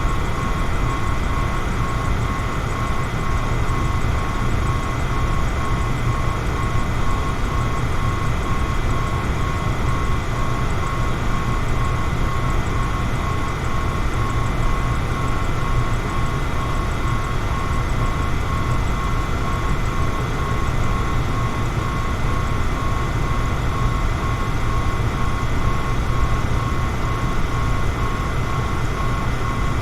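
Electric fan running steadily: an even whoosh of moving air with a low rumble and a faint steady whine from the motor.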